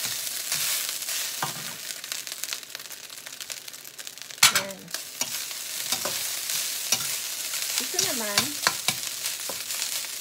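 Garlic fried rice sizzling in a stainless steel skillet while a metal spatula stirs and scrapes it, with many quick clicks of the spatula on the pan. One louder knock comes about four and a half seconds in.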